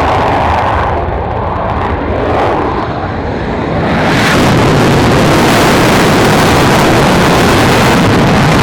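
Military aircraft engine noise: a loud, steady roar that swells suddenly about four seconds in as the aircraft passes close, then holds at full strength.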